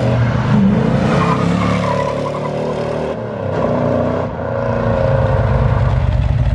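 Car engine revving, its pitch rising and falling, then running with a fast, even pulse near the end.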